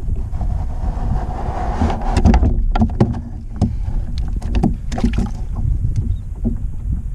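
Water splashing and slapping against a kayak hull, with many irregular knocks and a steady low wind rumble on the microphone.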